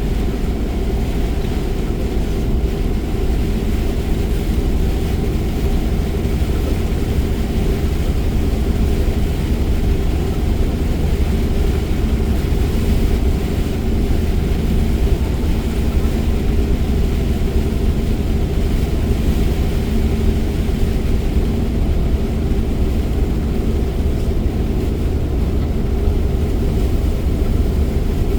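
Steady low rumble of a car driving at speed, heard from inside the cabin: road and engine noise with no sudden events.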